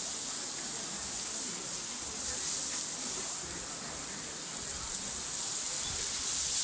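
Steady high-pitched drone of insects in outdoor ambience, an even hiss with no breaks.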